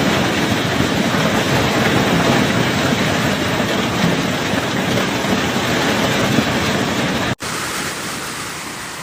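Heavy hail and rain pelting down in a dense, steady rush of noise. About seven seconds in it cuts out for an instant and resumes a little quieter.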